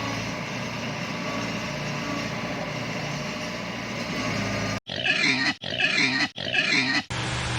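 A steady low hum, then about five seconds in a pig oinks three times in quick succession.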